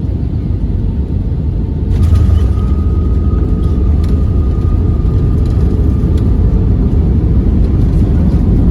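Loud, steady low rumble of a vehicle in motion, heard from inside it. A thin steady whine joins about two seconds in.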